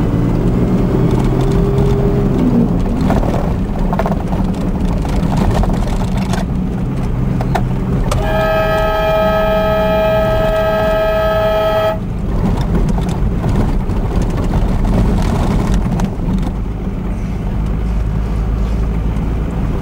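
Vehicle driving along with a steady low engine and road rumble; about eight seconds in, the car horn sounds in one long blast held for about four seconds, to move animals off the track.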